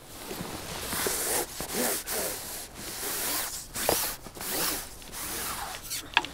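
Close rustling and rubbing in irregular bursts, with a couple of sharp clicks near the end: handling noise.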